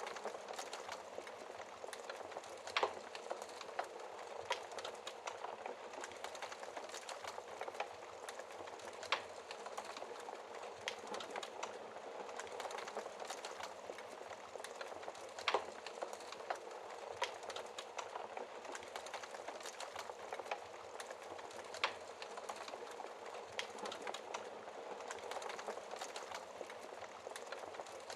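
Burning logs crackling in a fireplace: a steady soft hiss full of small ticks and snaps, with a few sharper pops.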